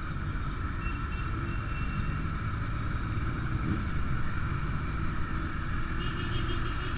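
Motorcycle engines running steadily with a constant low rumble.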